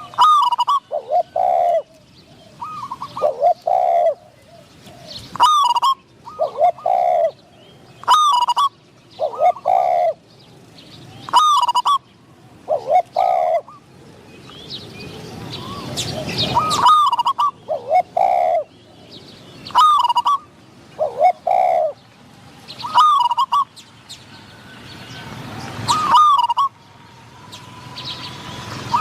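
Spotted doves cooing in short repeated phrases, mixed with sharper, higher bird notes between them. A rushing noise swells twice, around the middle and again a few seconds before the end.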